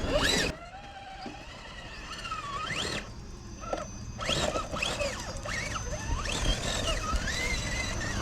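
Electric motors of RC rock-crawler trucks whining, their pitch rising and falling several times as the throttle is worked on and off.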